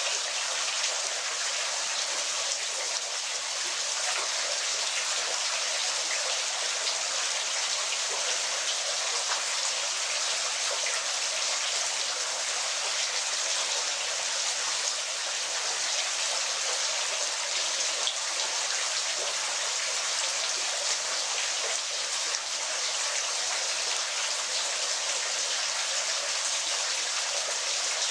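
Waterfall: a steady, hissy rush of falling, splashing water with fine droplet patter and almost no deep rumble.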